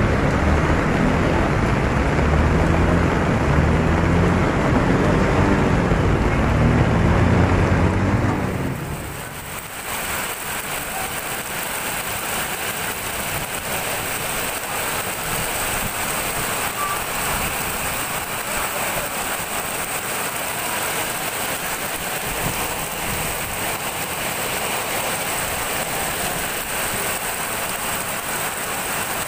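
Heavy rain pouring down on a flooded street, heard as a steady hiss. For the first eight or nine seconds, motorbike engines run low underneath the rain. Then the sound changes abruptly to rain alone.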